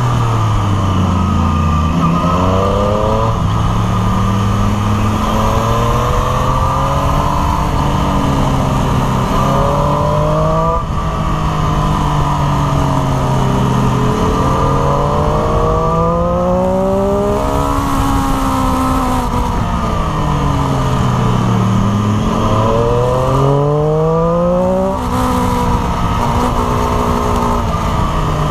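Triumph Street Triple RS 765 cc inline-three engine heard from the saddle, in second gear, its revs climbing and dropping again and again as the bike accelerates out of bends and slows into the next, over steady wind rush.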